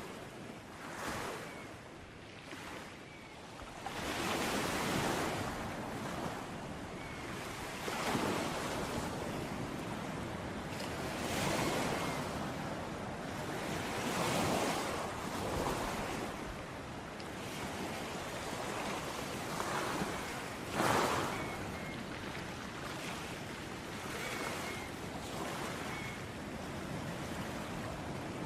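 Sea waves breaking and washing in, the surf swelling and falling back every few seconds, with one stronger break about three-quarters of the way in.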